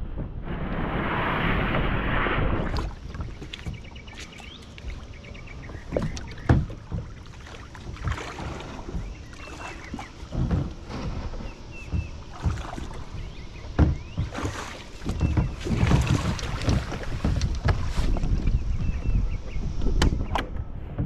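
Water splashing and sloshing against a Hobie Pro Angler 12 fishing kayak's plastic hull as it gets under way, with wind gusting on the microphone. A loud rush of water noise comes in the first couple of seconds, then scattered knocks and thumps against the hull.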